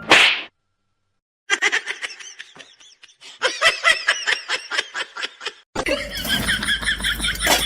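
Laughter in a run of short, rapid giggling bursts lasting about four seconds. Near the end it gives way to a different passage with steady background noise.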